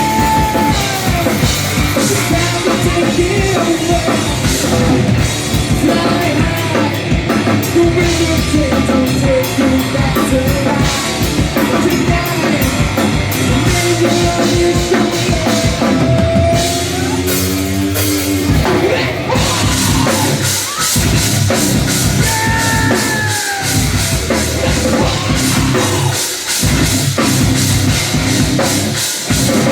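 Heavy metal band playing live and loud: a drum kit pounding under amplified instruments, with melodic lines bending in pitch above them.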